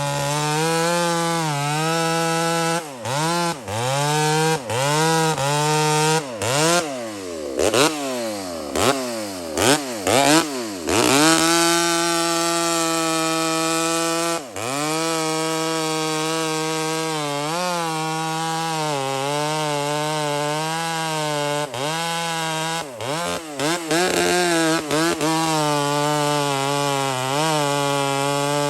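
Two-stroke chainsaw engine running at high throttle, its pitch repeatedly dipping and recovering, with a run of quick drops and climbs in revs partway through.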